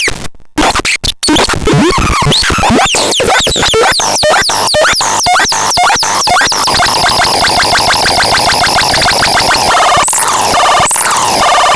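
Glitchy electronic synthesizer noise from the KASMAX being demonstrated. It starts with short cut-outs and rapid chirping pitch sweeps, settles into a fast repeating pulse about halfway through, and rises in pitch near the end.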